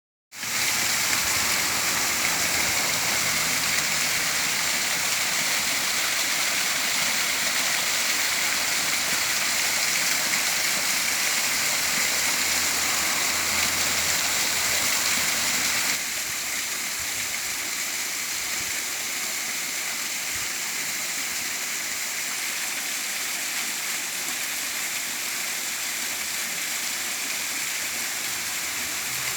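Waterfall: a steady rush of falling water, a little quieter from about halfway through.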